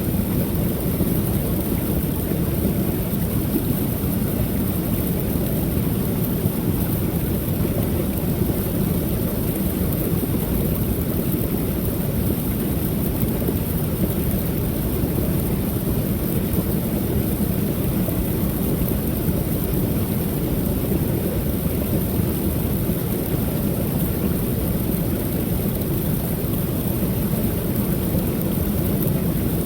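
Creek waterfall: water pouring and splashing steadily in an even, unbroken rush, deepest in tone.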